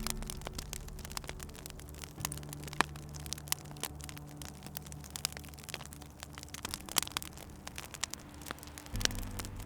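Wood fire crackling in a fireplace, with many irregular sharp pops and snaps. A low steady drone runs underneath and shifts in pitch about two seconds in and again near the end.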